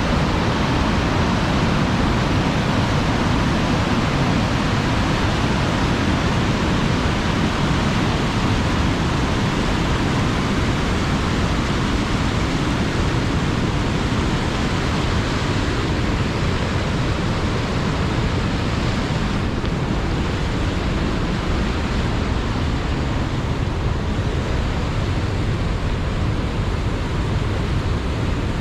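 Tännforsen waterfall's water rushing: a steady, loud, unbroken wash of falling water.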